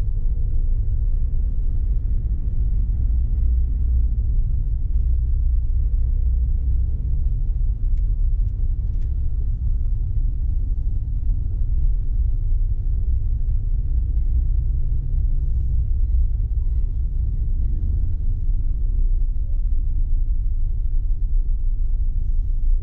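Steady low rumble of a car being driven, road and engine noise.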